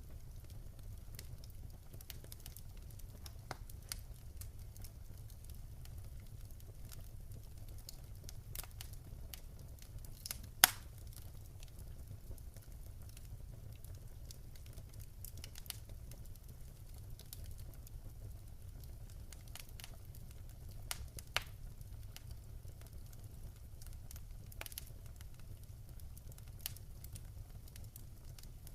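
Wood fire in a fireplace crackling, with scattered sharp pops over a steady low rumble; the loudest pop comes about a third of the way in, and two smaller ones follow near two-thirds of the way through.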